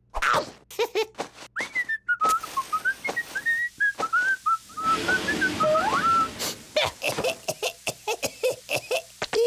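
Someone whistling a short, wavering tune, as a cartoon character does, with sharp clicks and knocks of sound effects around it and a quick run of clicks near the end.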